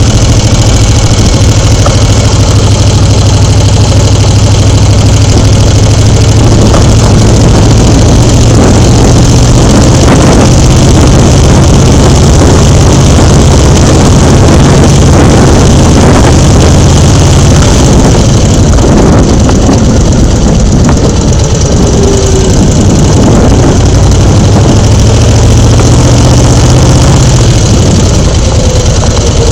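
A loud engine running at a steady speed under a dense rushing hiss; its note shifts about six seconds in and again near the end.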